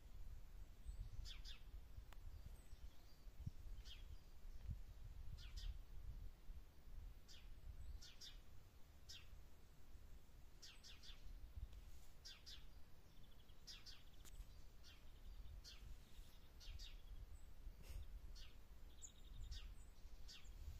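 Small birds chirping: short, high calls, often in pairs, repeating about once a second, faint over a steady low rumble.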